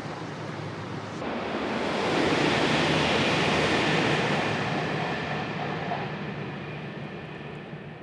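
E3 series Komachi shinkansen, running alone, passing at speed on a viaduct: a rushing noise that swells from about a second in, holds for a couple of seconds, then fades away.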